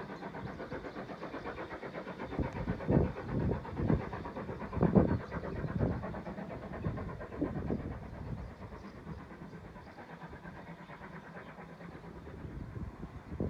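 Railway locomotive running with a steady engine hum, and a run of louder uneven bursts between about three and eight seconds in before it settles back.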